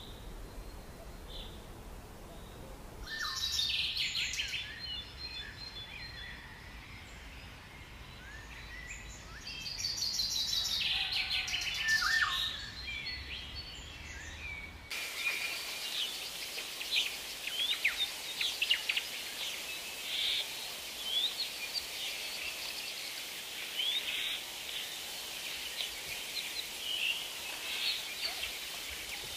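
Birds calling: loud, harsh calls in bursts around three to four seconds and ten to twelve seconds in. After a sudden change about halfway, a busy chorus of short, high chirps and whistles follows.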